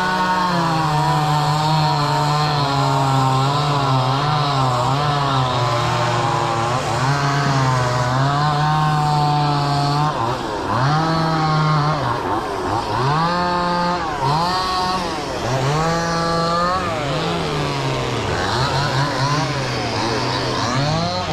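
Chainsaw cutting wood, its engine held at a steady, lower, loaded pitch for about ten seconds, then revved up and down again and again in quick rises and falls.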